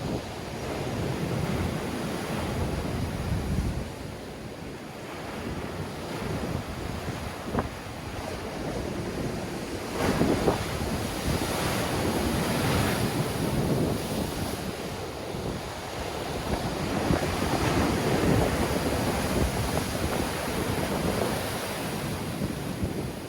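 Sea waves breaking and washing on the shore in a strong wind, surging louder every few seconds, with wind buffeting the microphone.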